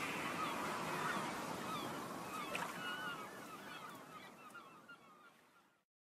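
Birds calling: many short, quick calls over a steady background hiss, growing fainter and cutting off near the end.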